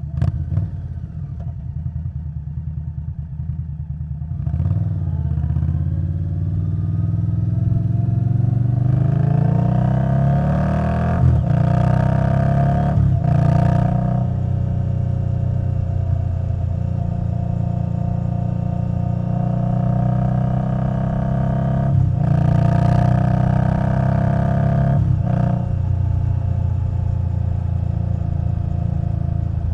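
Indian Scout Bobber Twenty's V-twin engine through a Vance & Hines Twin Slash exhaust. It runs low and steady for about four seconds, then pulls away, its pitch rising through the gears with shifts around eleven and thirteen seconds in. It then settles into a steady cruise, with brief throttle dips a little past the middle and again later.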